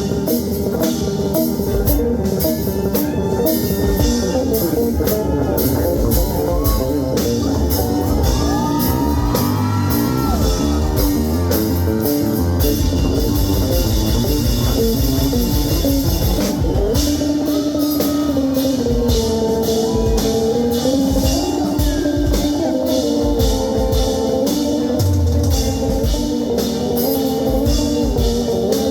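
Live rock band playing with no singing: electric guitar over drum kit and bass guitar, with sliding melodic guitar lines.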